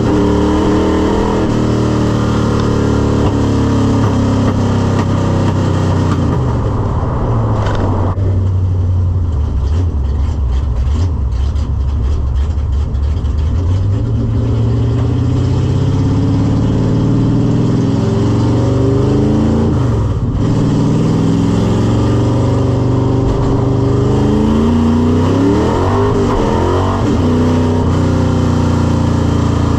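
A cammed 5.0 (302) small-block V8 with longtube headers in a 1986 Mustang GT being driven, its engine note rising and falling several times as the revs change. About eight seconds in it drops off to a lower, rougher note, then climbs again later.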